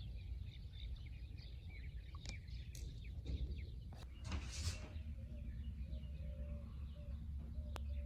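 Small birds chirping in short, scattered calls over a steady low rumble, with a brief rush of noise about four and a half seconds in.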